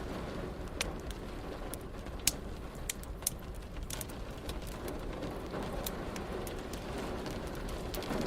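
Fireplace crackling, with sharp irregular pops scattered throughout (the loudest about two seconds in), over a steady hiss of rain and a low rumble.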